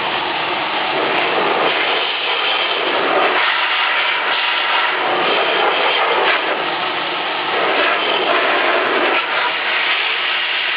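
Vacuum cleaner running in blower mode, blasting air through a desktop PC to clear out dust: a loud, steady rush of air whose tone shifts every few seconds as the nozzle moves.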